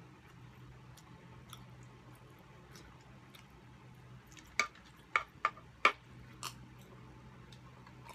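Close-miked chewing and mouth sounds of two people eating siomai and pancit canton, with a handful of sharp clicks and smacks about halfway through, over a faint steady low hum.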